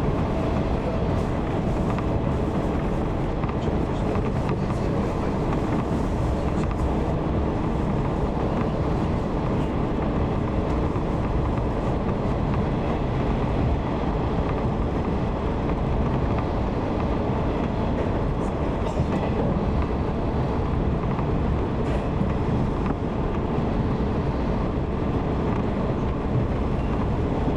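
Steady running noise of a 185 series electric train, heard from inside the passenger car as it travels along the line at a constant pace, with wheels rolling on the rails and a low, even rumble.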